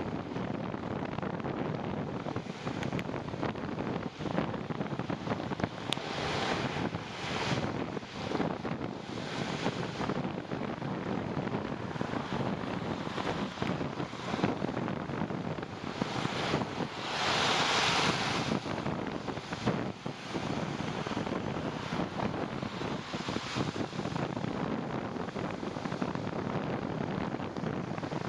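Wind rushing over the microphone during a ride in the rain: a constant hiss scattered with small clicks, swelling into a louder rush a little past halfway.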